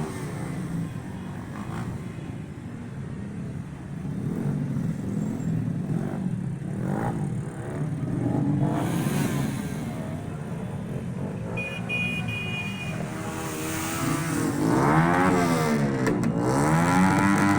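Engines of parade cars and motorcycles running as they go by. Near the end an engine is revved up and down twice.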